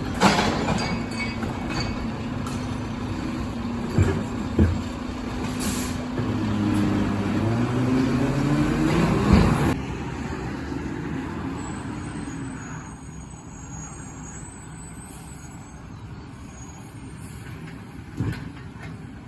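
Garbage truck running, with a sharp air-brake hiss near the start and another around six seconds in, and a couple of clunks. The engine then revs up in a rising pitch for a few seconds and drops back about ten seconds in, settling to a quieter idle with a single thump near the end.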